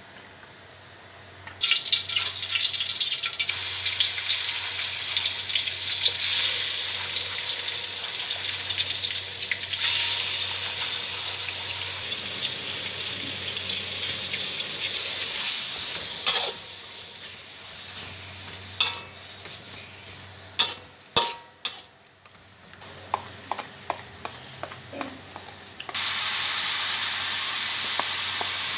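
Chicken pieces frying in hot oil in a wok: a loud steady sizzle. About two-thirds of the way through come a few sharp clicks and knocks and a quieter stretch. Near the end a fresh sizzle starts as pounded red onion, garlic and black pepper go into the hot oil.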